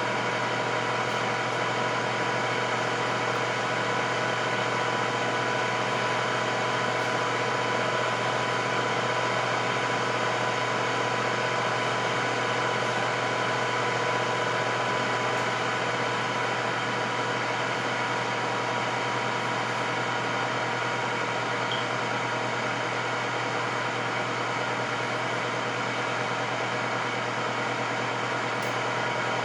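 Electric air fryer running: a steady fan whir with a low hum and a thin, even whine.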